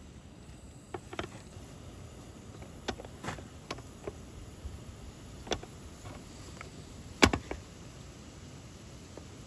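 Wood fire crackling: irregular sharp pops and snaps over a low steady background, the loudest about seven seconds in.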